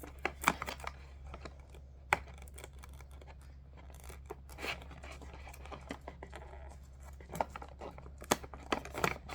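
Plastic dog-treat bag being worked open with scissors: scattered sharp snips, crinkling and tearing of the packaging, with one sharp click about two seconds in.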